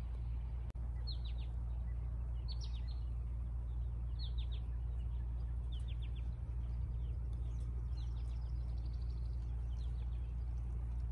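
A songbird calling in short phrases of quick falling high notes, repeated every second or two, over a steady low rumble.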